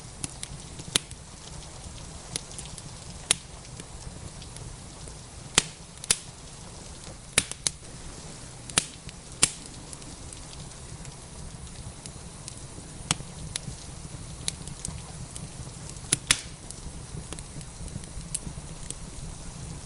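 Wood fire crackling in a fireplace: irregular sharp pops and snaps, about a dozen loud ones scattered unevenly among smaller ticks, over a steady low background hiss.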